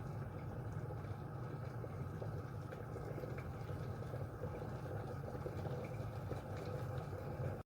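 Electric kettle heating water: a steady low rumble with faint scattered crackling ticks. It cuts off suddenly near the end.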